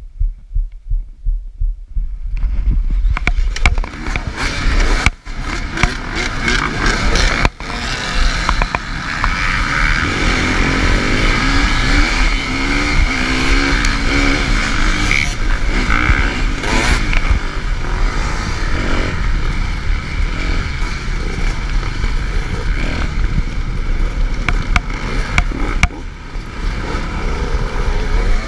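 Suzuki RM-Z250 four-stroke single-cylinder motocross engine idling with a low throbbing pulse, then from about two seconds in revving hard under full throttle with other dirt bikes accelerating around it: a mass race start.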